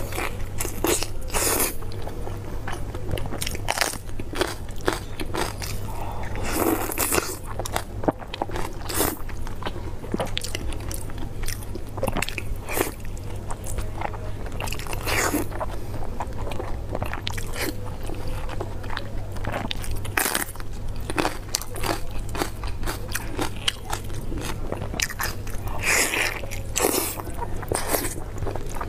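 Close-miked biting and chewing of soft, glazed pork belly: wet smacking and sticky clicks of the mouth at irregular intervals.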